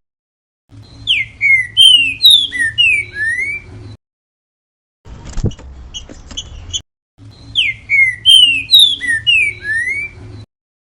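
Trinca-ferro (green-winged saltator) singing its 'grego mole boi' song: a phrase of loud, slurred whistled notes sliding up and down, given twice a few seconds apart. Between the phrases comes a single click with faint chirps.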